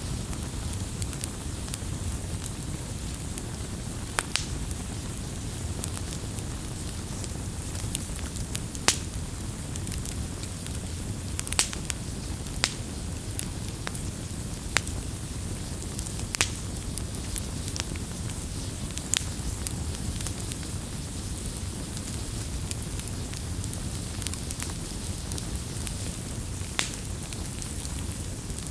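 Wood campfire burning: a steady low rush of flame with sharp crackles and pops at irregular moments, a dozen or so, every one to three seconds.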